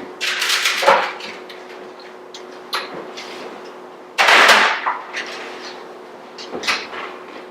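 Kitchen clatter of a metal baking pan being handled and slid back into the oven: scrapes and knocks, the loudest a half-second scrape about four seconds in, with lighter clicks after.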